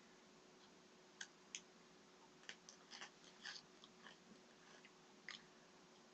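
Faint chewing of crunchy chocolate-covered mini pretzels: a handful of short, irregular crunches.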